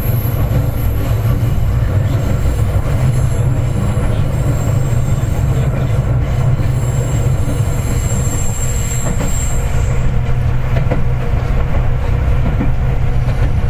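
Seibu 4000 series electric train running, heard inside the passenger car: a steady heavy rumble of wheels and motors on the rails, with a thin high wheel squeal on a curve that fades out about ten seconds in.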